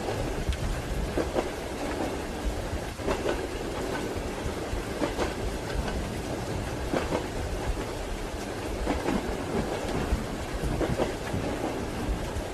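Train wheels clacking rhythmically over rail joints, the knocks coming in pairs roughly every two seconds, over the steady rumble of a moving railway carriage with rain falling.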